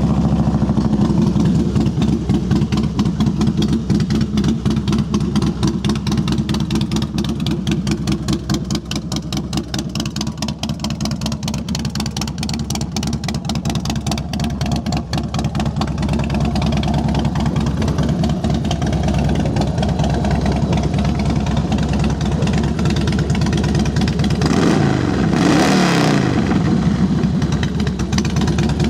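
Harley-Davidson Twin Cam 88 V-twin idling steadily through Vance & Hines Long Shots exhaust, with one blip of the throttle, rising and falling, about 25 seconds in. It runs smoothly, with no knocking or rattling to the dealer's ear.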